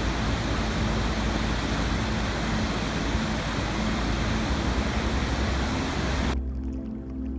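Steady rushing water, an even full-range hiss, which cuts off suddenly about six seconds in, leaving soft music with sustained notes.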